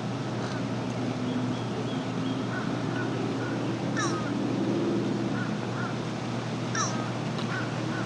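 Birds calling: scattered short chirps, with two louder, sharply sweeping calls about four and seven seconds in, over a steady outdoor hiss.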